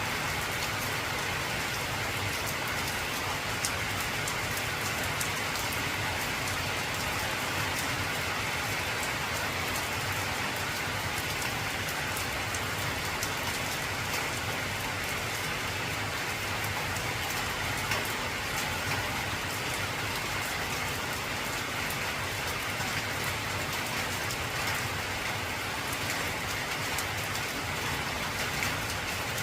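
Heavy rain falling steadily on an old corrugated zinc roof, an even, unbroken patter with a few sharper drops.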